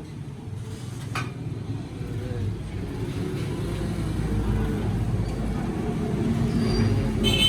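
A vehicle engine running steadily, growing louder over several seconds, with faint voices in the background and a single sharp knock about a second in.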